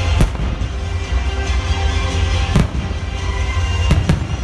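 Aerial firework shells bursting in sharp bangs: one just after the start, one about two and a half seconds in, and two in quick succession near the end. Music with a heavy steady bass plays throughout.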